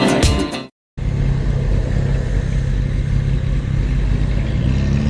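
Intro music fading out in the first second, a brief cut to silence, then a Yamaha MT-09's three-cylinder engine running at a steady cruise with wind noise on the microphone.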